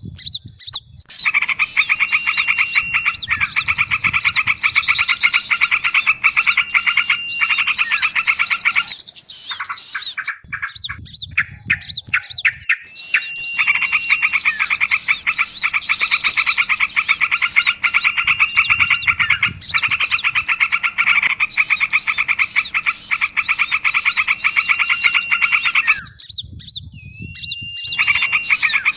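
A bird-lure call mix: many small songbirds chirping rapidly and excitedly, layered over a lower, fast pulsing trill. The trill drops out twice, about nine seconds in and again near the end, leaving the chirping.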